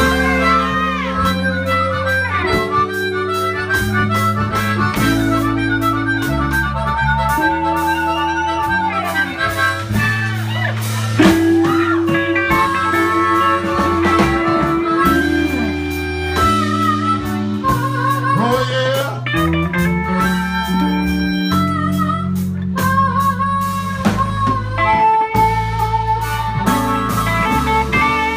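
Live slow blues played by a band, a harmonica carrying the lead with wavering, bent notes over guitar, bass and drums.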